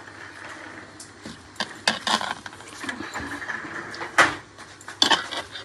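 Scattered clinks and knocks of a cooking utensil against a pot, the loudest about four seconds in, over a faint steady hiss.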